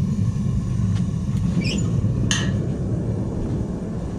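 Steady low rumble in the smithing shop, with a single sharp clink a little over two seconds in, as the blade is set up to check its balance.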